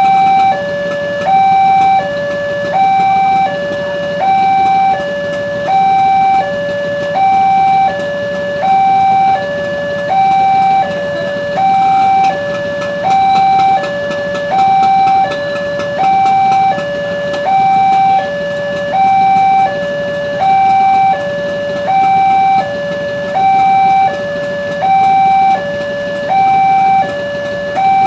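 Railroad level-crossing warning alarm sounding while the barrier is down: an electronic two-tone signal that alternates steadily between a higher and a lower note about once a second.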